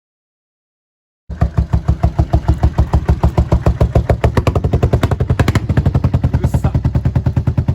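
Suzuki Savage 400 single-cylinder engine idling with a steady, rapid pulse that quickens slightly about four seconds in. The sound cuts out completely for the first second or so.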